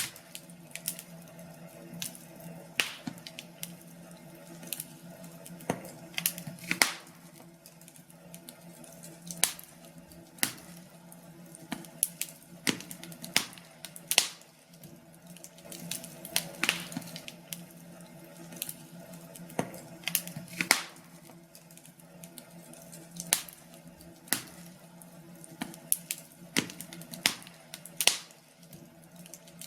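Wood fire in a fireplace crackling, with irregular sharp pops and snaps, several a second, over a faint steady hum.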